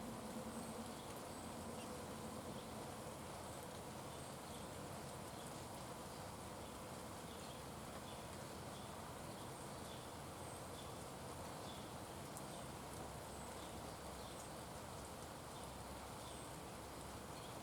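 Faint outdoor ambience at a bird feeder: a steady hiss with soft, evenly repeated high chirps. A low buzz fades away in the first couple of seconds.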